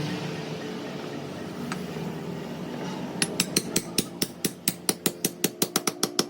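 Rapid hammer blows on metal, about six or seven sharp strikes a second, starting about halfway through and quickening slightly toward the end, over a steady machine hum.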